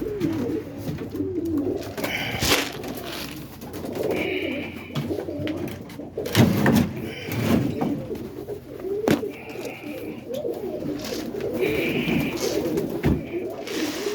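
Roller pigeons cooing in a loft, several low warbling coos overlapping throughout. A few sharp knocks and some short higher-pitched notes come in between.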